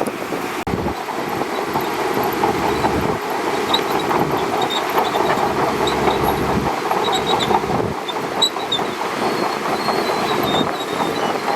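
Shantui DH17C2 crawler bulldozer working: steady diesel engine noise with the rattle of its steel tracks and scattered small high squeaks. There is a very brief dropout less than a second in.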